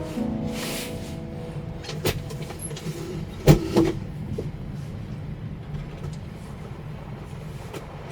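Typhoon wind buffeting a kei-truck camper: a steady low rumble with a few sharp knocks, the loudest about three and a half seconds in.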